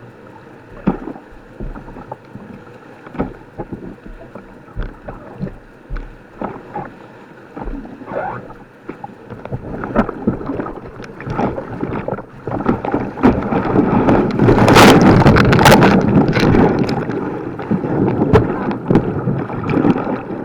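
Kayak on white water: irregular splashes, then a rushing of water that builds from about halfway through and is loudest about two-thirds of the way in.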